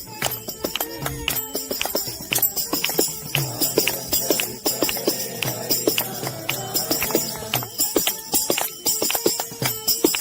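Bhajan being sung by a group, accompanied by jingling hand percussion and a steady beat of sharp clicks.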